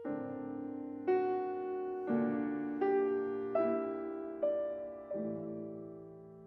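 Slow, gentle solo piano music: single melody notes struck about once a second, each ringing out and fading over sustained lower notes.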